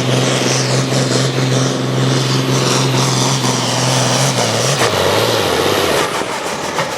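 Pulling tractor's engine running hard at a steady high pitch under load, then falling in pitch as it throttles back near the end of the pull.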